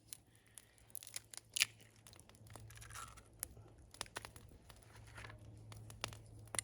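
Crackling from a campfire with a pan of eggs cooking on it: irregular sharp pops and clicks, several a second at times, over a faint steady hum.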